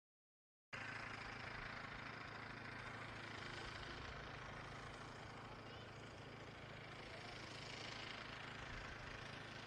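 Steady background noise with a low, even hum underneath, cutting in abruptly under a second in after dead silence.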